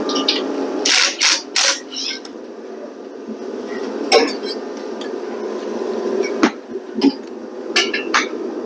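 Metal tools and car parts clanking and clinking in short bursts, a quick cluster about a second in and single knocks later, over a steady low hum.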